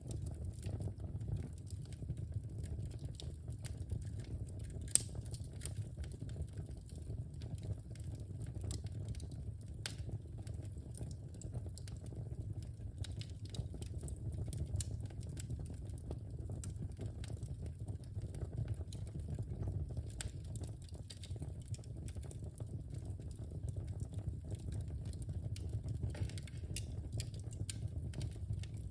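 Wood fire burning in a fireplace: a steady low rumble of the flames with scattered crackles and pops, one sharper pop about five seconds in.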